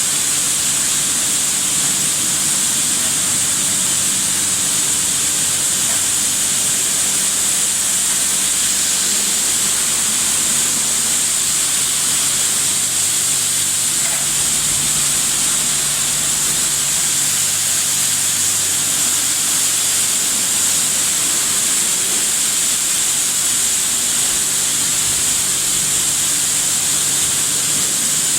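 High-pressure water jets of a touchless single-arm car wash machine spraying steadily: a loud, even hiss with a faint low hum underneath.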